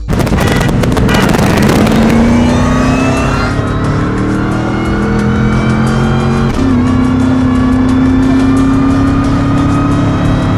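Supercharged Ford V8 engines at full throttle in a street race, pitch climbing slowly and steadily under load, with a brief dip about six and a half seconds in as a gear change.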